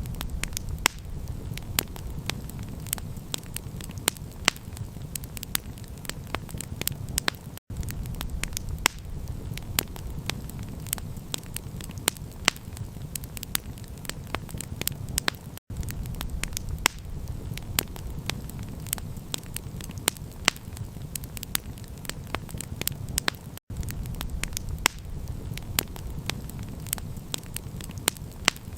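Campfire crackling: a dense stream of sharp pops and snaps over a steady low rumble, broken by very brief silent gaps about every eight seconds.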